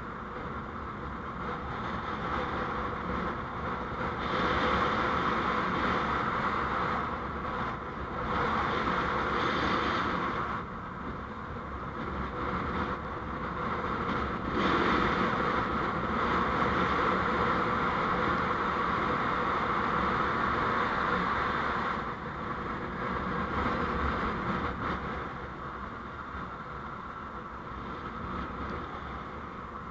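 Road and engine noise of a vehicle on the move, recorded by an onboard dashcam: a steady rushing hum that swells and eases every few seconds.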